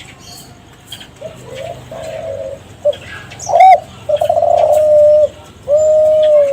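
Kelantan spotted dove (tekukur) cooing: a few soft low coos, then a short loud rising note about three and a half seconds in, followed by two long, loud held coos near the end.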